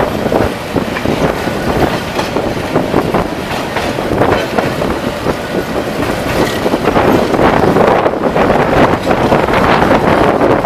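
Passenger train running along the track, its wheels clattering over the rails against a dense rumble, with some wind noise on the microphone.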